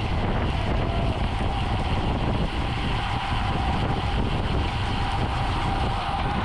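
Wind rushing over the microphone of a camera on a road bike moving at race speed, with steady road and tyre noise. A faint steady hum comes in stronger about halfway through.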